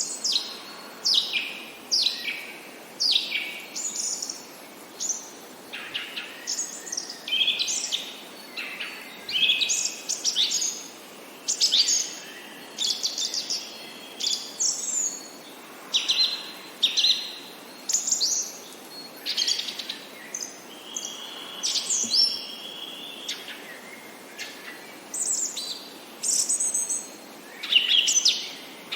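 Songbirds singing and chirping: a run of short, high phrases, many sweeping steeply down in pitch, coming about once or twice a second, over a faint steady hiss.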